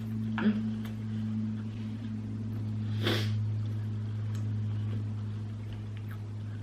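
Steady low hum throughout, with a few faint mouth clicks from chewing food and a short sniff or breath about three seconds in.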